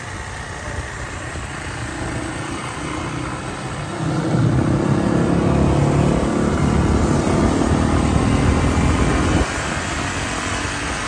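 Dirt bike engine running under way with heavy wind rush on the microphone; the engine grows louder at about four seconds in as the bike speeds up, then eases off a few seconds before the end.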